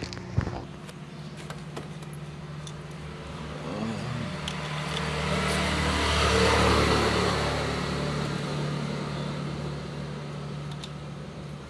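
A motor vehicle passing by, growing louder to a peak about six to seven seconds in and then fading away, over a steady low hum. A single sharp click about half a second in.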